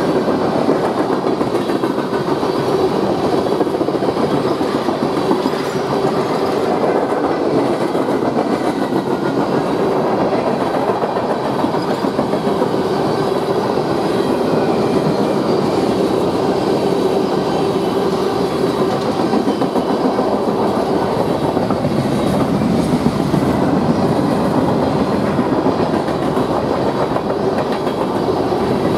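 Covered hopper cars and tank cars of a manifest freight train rolling past, a steady rush of steel wheels running on rail.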